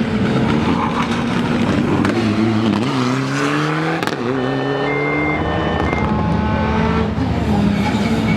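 Rally car engine revving hard under acceleration. Its pitch climbs, drops back sharply at a gear change about four seconds in, then climbs again.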